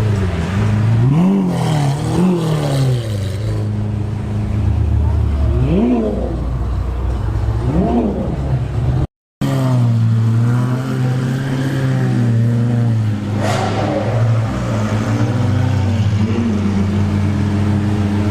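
Exotic sports car engines blipping the throttle in short revs, two close together near the start and two more a few seconds later. After a cut, an engine runs at a steady idle with small rises in revs.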